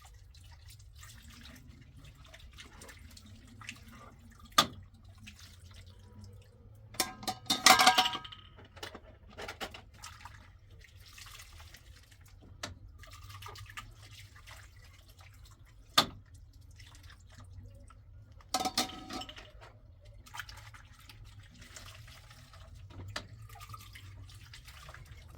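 Intermittent water splashing and dripping with sharp clinks, and two louder clatters of dishes, one about a third of the way in and one about three-quarters through.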